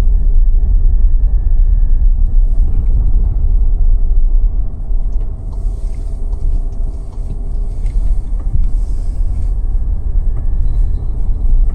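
Car cabin noise while driving: a steady low rumble of the engine and tyres on the road, easing off briefly about halfway through.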